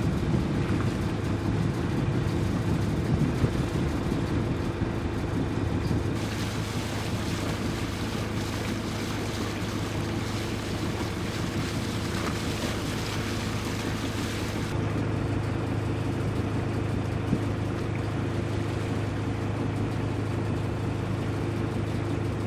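A yacht's engine running steadily under way, a constant low drone, with the rush of water along the hull.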